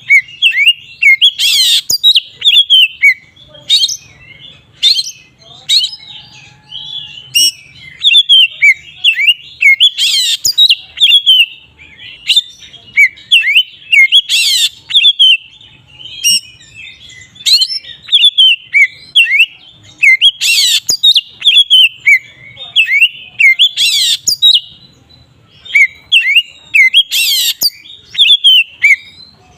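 Oriental magpie-robin (kacer) in full, open song (ngeplong): a continuous run of rapid high chirps and short whistled glides. A harsh, rasping burst cuts in every three to four seconds.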